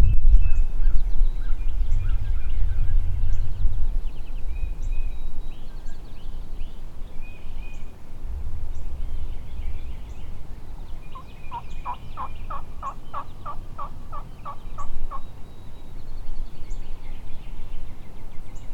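A turkey yelping: a steady run of about fourteen evenly spaced notes, some four a second, lasting a few seconds past the middle, with small songbirds chirping throughout. A low rumble fills the first few seconds.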